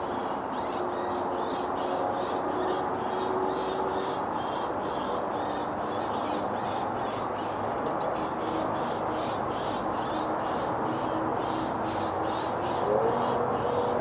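Birds calling: a harsh note repeated about three times a second, with a few higher chirps, over a steady rushing background.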